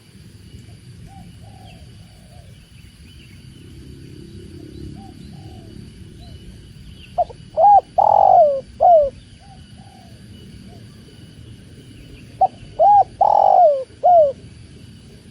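Spotted dove (tekukur) cooing: two loud multi-note coo phrases, one about halfway through and one near the end, each a few short notes around a longer drawn coo. Fainter coos come earlier, over a low steady background rush.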